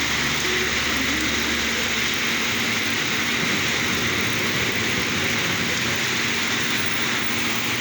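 Heavy rain pouring down in a loud, steady hiss, with a faint steady hum beneath it.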